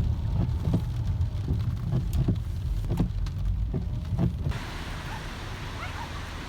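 Car driving in the rain, heard from inside the cabin: a steady low road and engine rumble with irregular ticks of rain. About 4.5 seconds in, it switches abruptly to a steady hiss of rain.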